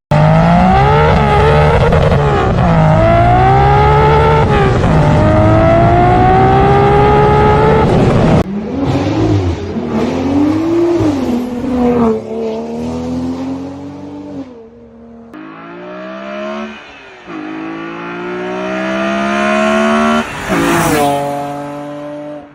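Inline-six car engines revving hard in a string of separate clips, the pitch repeatedly climbing and dropping back. The sound cuts abruptly to a new engine about eight seconds in and again near fifteen seconds, the first clip being the loudest.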